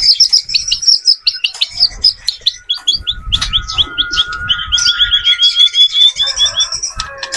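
White-rumped shama singing: a quick stream of short downward-sweeping notes, then a fast trill of about fifteen repeated notes around halfway through, over a steady thin whistle.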